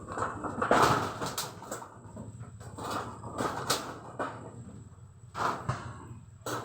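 Kitchen handling noises: an irregular series of short knocks and scrapes, like cookware or cupboards being moved about.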